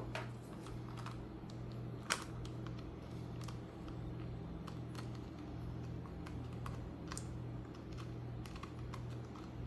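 Irregular small clicks and taps of a hand tool working in the plastic steering and servo parts of a toy-grade RC car, digging out a broken screw and stuck brass bushings; a sharper click about two seconds in. A steady low hum runs underneath.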